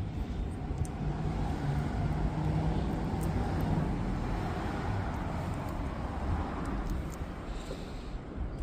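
A motor vehicle passing by: road noise and a low engine hum swell a few seconds in, then fade. Low wind rumble on the microphone runs underneath.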